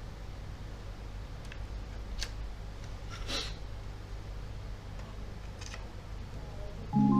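A steady low hum with a few light clicks, one of them a little longer, like a short scrape. Music with bell-like mallet tones starts right at the end.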